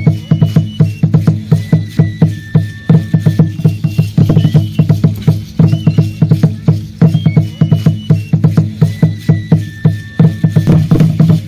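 Drum-led music: fast, even drumbeats with a clicking, wood-block-like edge, and thin high tones over them that recur every few seconds.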